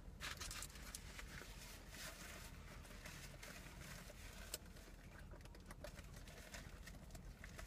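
Quiet car interior: a low steady hum with faint scattered clicks and soft rustles from chewing food.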